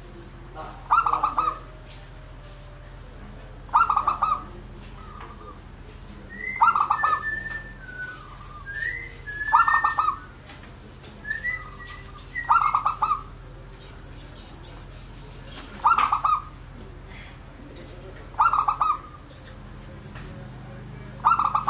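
Zebra dove (perkutut) cooing: about eight short, loud bursts of rapid staccato coos, one every two to three seconds. Between about six and twelve seconds in, higher short chirps fall between the coos, over a steady low hum.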